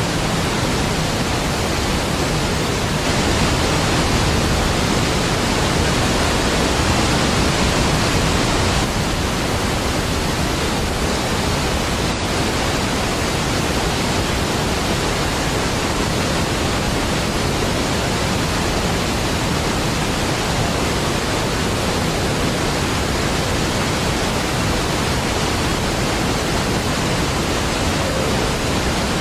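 Niagara Falls, a large waterfall, rushing: a steady, deep roar of falling water, a little louder for a few seconds near the start.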